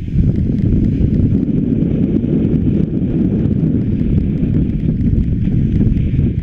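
Steady wind noise rumbling over an action camera's microphone while skiing downhill.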